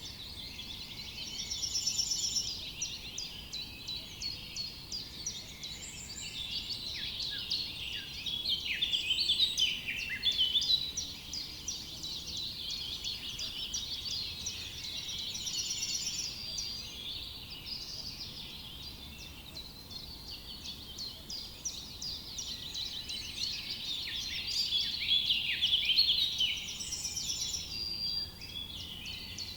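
Forest bird chorus: many birds chirping and singing at once in quick, overlapping high calls, swelling louder a few times.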